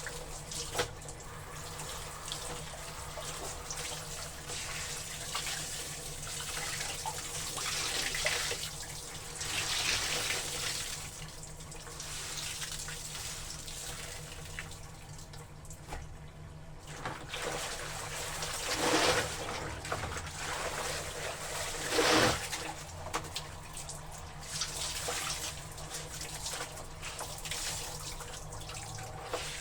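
Water sloshing and splashing as clothes are washed in a tub of water, in irregular swells with two louder splashes in the latter half.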